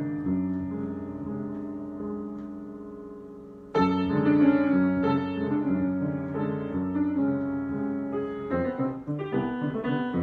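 Solo piano improvisation: a held chord fades slowly, then a loud new chord is struck about four seconds in, and the playing goes on with further chords and single notes.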